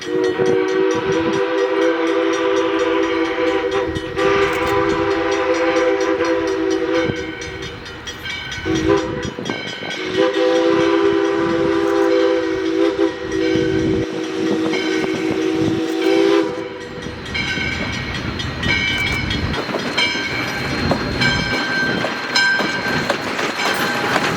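Steam whistle of ALCO 2-8-2 Mikado #40 sounding several tones together as a chord: a long blast, a short toot, then another long blast. After that the train keeps rolling by with clickety-clack.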